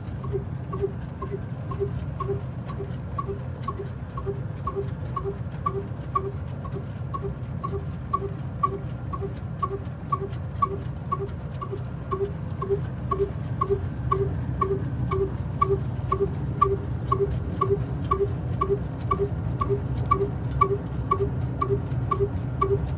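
Old black diesel engine running slowly and steadily: a low hum with a ringing metallic ping on each beat, about two and a half beats a second.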